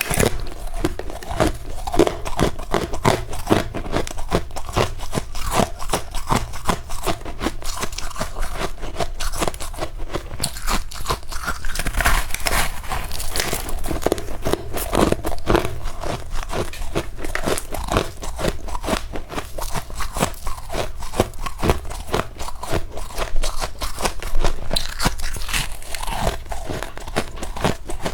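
Close-miked crunching and chewing of powdery freezer frost ice: a dense, continuous run of crisp crunches.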